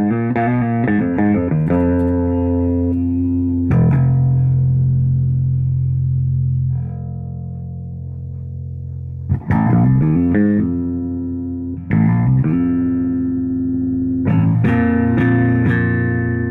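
Rivolta Mondata Deluxe electric bass played through a 1962 Fender Bassman amp stack: a quick run of plucked notes, then a long held note that rings for several seconds and slowly fades, followed by another short run, a second held note and more notes near the end.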